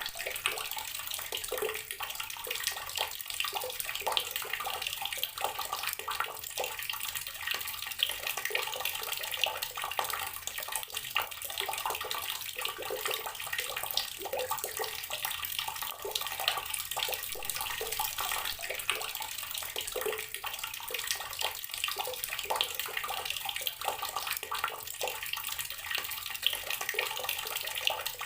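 Water running steadily from an outdoor tap, a continuous splashing stream.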